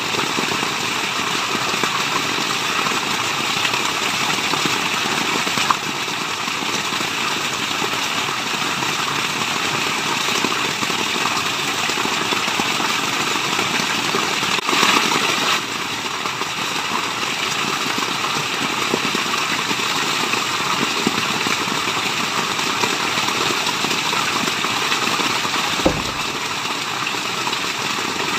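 Steady rushing of falling water, a dense even hiss with no pauses, swelling a little louder for about a second halfway through.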